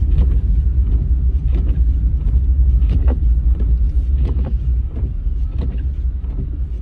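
Car interior noise while driving: the steady low rumble of the engine and tyres on the road, heard inside the cabin, with faint ticks recurring about every second and a half.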